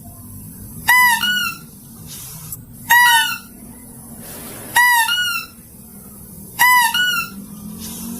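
Mouse-deer (kancil) call played as a lure recording: a short, high two-note cry repeated four times, about every two seconds, over a faint steady low hum.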